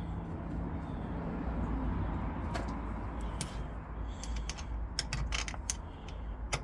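Scattered sharp metallic clicks and taps of a hand tool tightening a car battery's terminal clamp, bunched together about five seconds in, over a low steady rumble.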